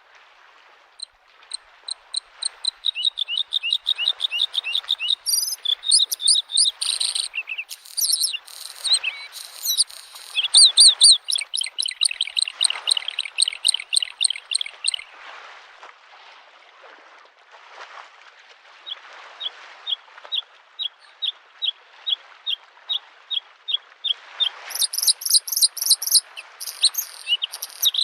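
Bluethroat singing: rapid runs of repeated high notes and trills for the first half, a slower string of single notes a little past the middle, and a burst of very high phrases near the end. Small lake waves wash against the shore underneath.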